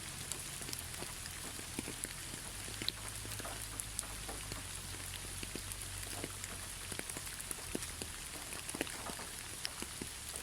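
Steady rain with a constant high hiss and many individual drops ticking and pattering at irregular intervals.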